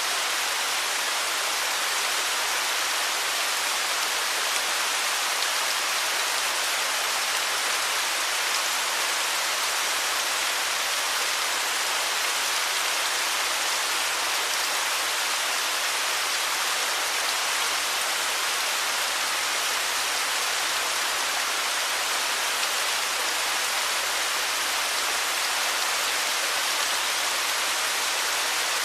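Running water in nature, a steady, unbroken bright hiss with little low rumble.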